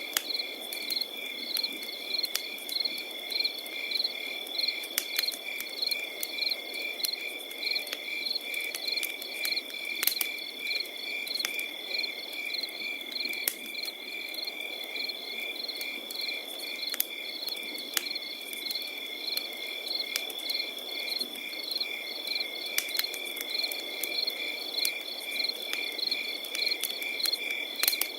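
Crickets chirping: one holds a steady high trill while others repeat short chirps at an even rhythm of a few per second. Underneath, a campfire hisses and crackles, with irregular sharp pops.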